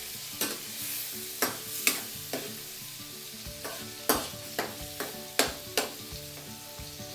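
Oil sizzling in a metal wok as chopped tomatoes and onions are pressed and stirred with a metal spoon to draw out their juice. The spoon clinks and scrapes sharply against the pan about ten times, in two bursts.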